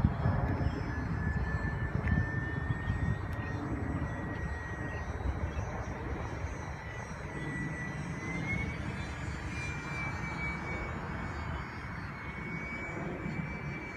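Twin-engine radio-controlled Aero Commander model airplane in flight, its motors giving a steady high whine that rises a little in pitch about two-thirds of the way through, over a low rumble that is loudest at the start.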